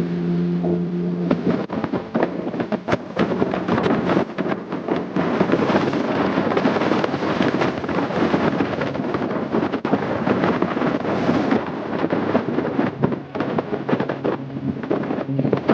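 Motorcycle engine running steadily for about the first second and a half, then buried under loud, gusting wind buffeting on the microphone while the bike is ridden.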